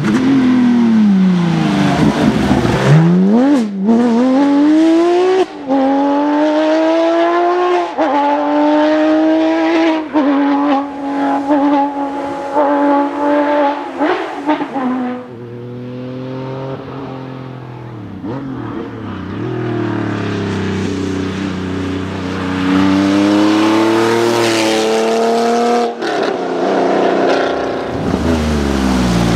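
Porsche flat-six rally cars accelerating hard, the engine note climbing steeply through the revs and dropping back at each upshift. About halfway through it turns quieter and lower at low revs before revving up again, and near the end another loud car takes over.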